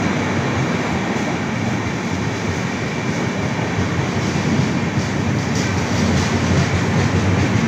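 Indian Railways passenger train running past a station platform: a loud, steady rumble of wheels on the rails with a few faint clicks.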